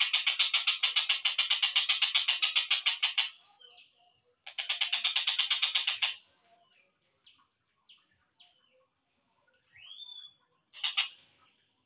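Collared kingfisher (tengkek buto) call played back slowed down: a long train of harsh repeated notes, about six or seven a second, stopping about three seconds in. A second, shorter train follows around five seconds, then scattered faint chirps, a rising whistle near ten seconds and a short burst near eleven.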